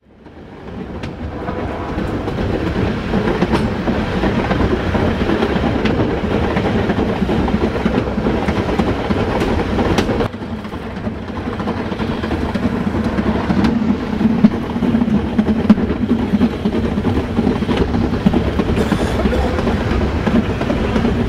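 Metre-gauge train running along the track, heard from inside its rear cab: a steady rumble of wheels on rails with now and then a sharp click, fading in over the first two seconds.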